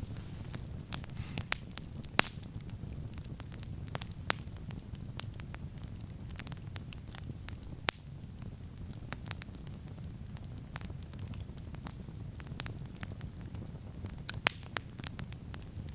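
Wood campfire burning with a steady low rumble of flame and irregular sharp crackles and pops, a few of them louder snaps.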